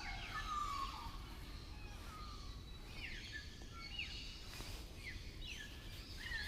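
Birds calling: short, repeated chirps that drop in pitch, about one a second, over a faint low background rumble.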